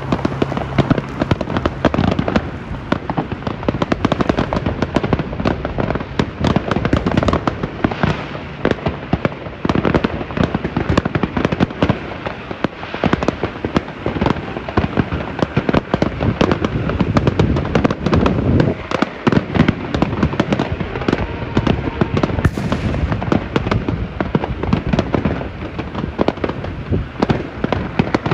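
Many aerial fireworks bursting at once: a dense, unbroken barrage of bangs and crackling.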